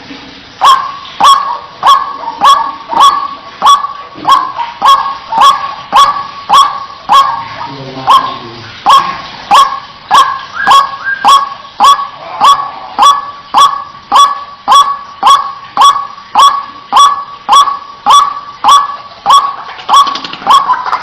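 White-breasted waterhen (ruak-ruak) giving a steady, rapid series of loud, harsh "kwak" calls, about one and a half a second, as used to lure the birds.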